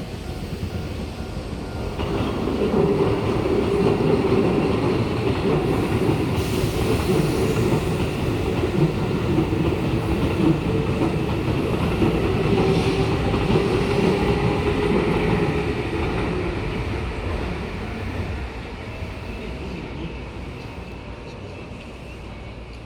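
A Keihan Railway electric train passing over a level crossing, its wheels running on the rails. It gets louder about two seconds in, stays loud for a while, then fades away over the last several seconds as it moves off.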